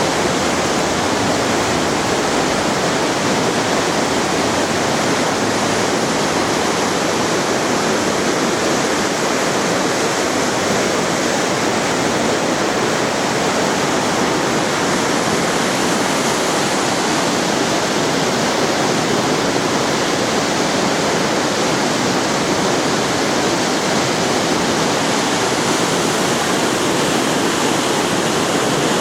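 Mountain waterfall pouring, a loud, steady rush of falling water.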